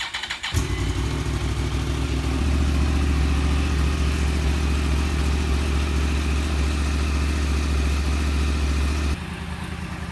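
Yamaha R1's inline-four engine on a cold start: the starter cranks briefly and the engine catches within the first second. It then runs at a steady fast cold idle, dropping noticeably quieter near the end.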